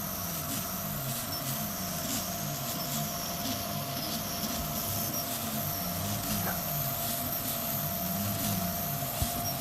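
OpenBeam Kossel Pro delta 3D printer's stepper motors whining while it prints, their pitch gliding up and down and changing every fraction of a second as the head moves, over a steady hum.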